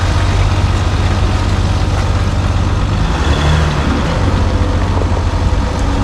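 Off-road vehicle driving, with a steady low rumble of engine and tyres.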